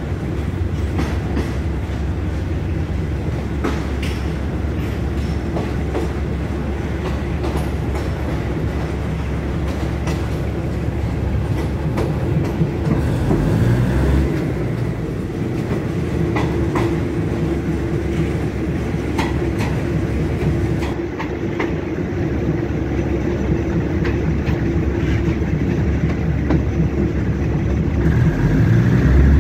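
Passenger train running on its tracks, heard from an open carriage window: a steady low rumble with scattered clicks and clacks of the wheels over rail joints and points. It grows a little louder about halfway through and again near the end.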